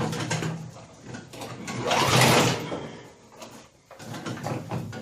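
Pull-starting a Snapper walk-behind mower's Tecumseh engine: the recoil starter cord is yanked, with a rough whirring rush about two seconds in and a shorter one at the start. The engine cranks but does not catch.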